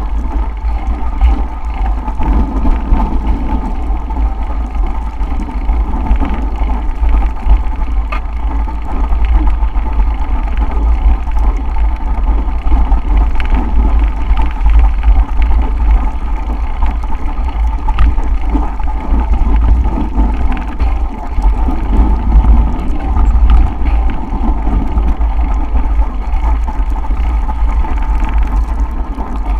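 Wind buffeting the microphone of a camera riding on a bicycle through a snowstorm: a steady, loud low rumble with a constant hum of riding noise over it.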